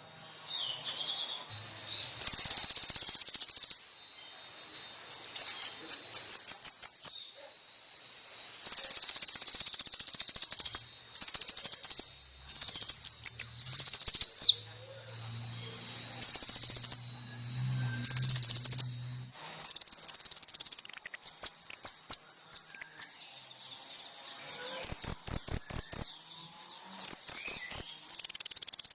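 Konin (kolibri ninja) song from a masteran recording: very high-pitched, buzzy trills a second or two long, alternating with fast runs of short ticking notes, repeated phrase after phrase with short pauses.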